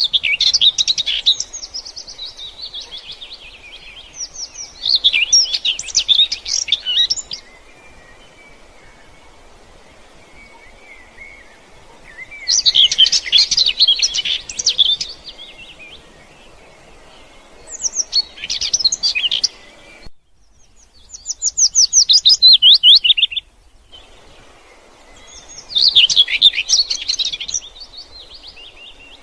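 Songbird singing in repeated phrases of rapid high chirps, each a couple of seconds long with pauses of a few seconds between. One phrase a little past the middle is a quick run of falling notes. A faint steady outdoor background fills the pauses.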